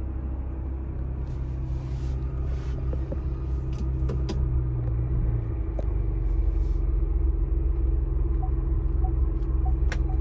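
Ford Bronco's engine idling steadily, its low hum growing a little fuller about halfway through. Faint quick ticking starts near the end.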